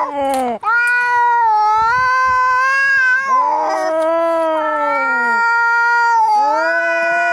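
Domestic cats caterwauling in a fight: long, drawn-out yowls of two to three seconds each that waver up and down in pitch, one after another, with the calls partly overlapping. Short raspy breaks come between the yowls near the start and about three and a half seconds in.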